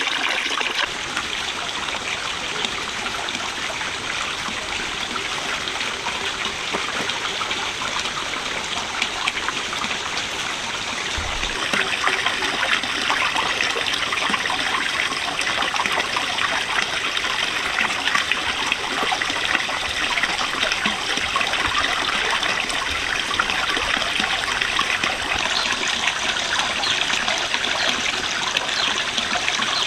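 Running water trickling steadily, growing louder about twelve seconds in.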